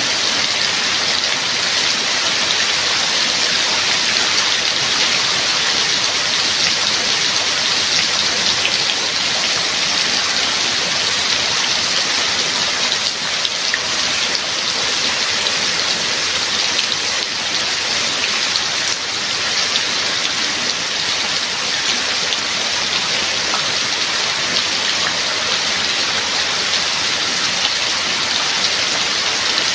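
Steady heavy rainfall: a dense, even hiss of drops striking surfaces, with no let-up.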